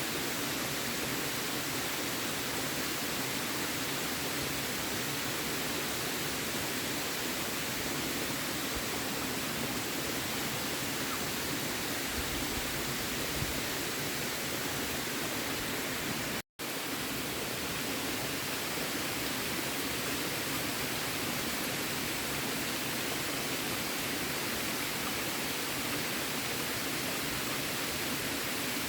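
Steady, even rushing noise with no rhythm or pitch, cut by a very brief gap about sixteen and a half seconds in.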